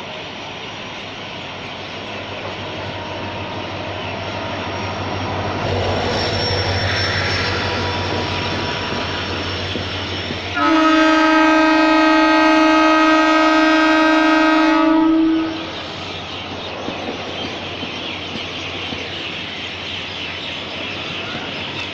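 Indian Railways passenger train running past below, its rail noise building over the first few seconds. About ten seconds in, a train horn sounds one long steady blast of about five seconds, then the running noise carries on.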